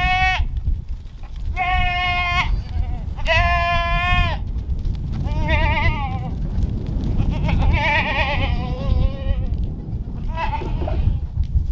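Kiko goat kids bleating: about six separate high calls, some held level and some wavering, over a steady low rumble.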